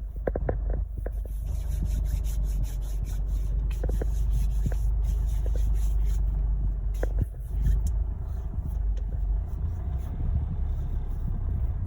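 Steady low vehicle rumble heard from inside a car cabin, with scattered light clicks and a brief drop about seven seconds in.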